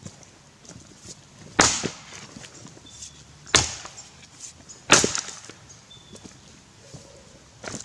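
Tassie pattern axe chopping into a Grey Gum log: three heavy strikes a second or two apart, each a sharp crack, and a lighter strike near the end.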